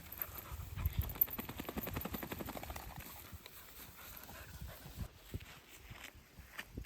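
Footsteps on stony ground, with a quick run of light knocks for the first few seconds and then scattered steps.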